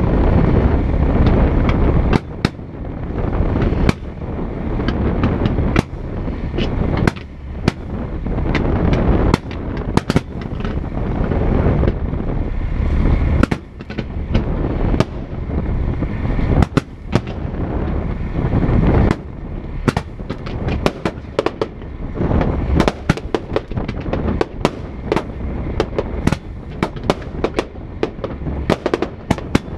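Fireworks display: a steady heavy rumble of shell bursts, broken by sharp bangs. The bangs come about every second or two at first and turn into a dense run of crackling reports in the second half.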